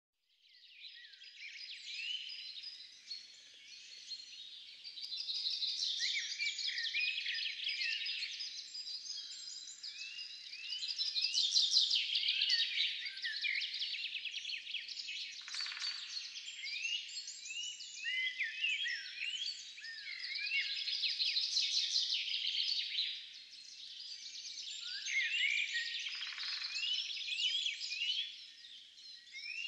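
Many small songbirds chirping and twittering at once: a dense, continuous chorus of short, high notes, many sliding up or down in pitch.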